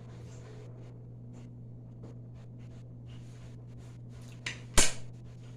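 Kitchen work: faint scattered clicks and light rubbing over a steady low hum, then a small knock and, just after it, one sharp loud clack of something hard being set down, nearly five seconds in.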